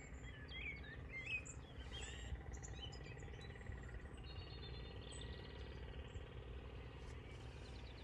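Small birds chirping and calling outdoors in open country, with quick rising and falling notes clustered in the first few seconds. From about halfway through, a steady high trill carries on. Underneath is a low, steady rumble.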